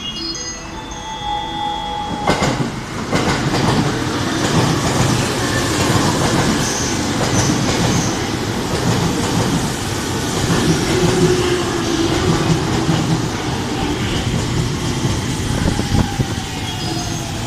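JR East E231 series electric commuter train running into the platform: a loud rumble of wheels with rail-joint clatter that starts suddenly about two seconds in. Near the end a falling whine comes in as the train brakes.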